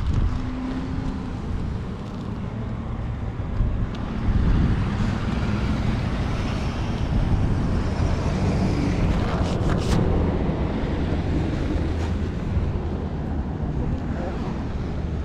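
Wind buffeting the microphone over the steady rumble of cars in a snowstorm, with a few sharp clicks about ten seconds in.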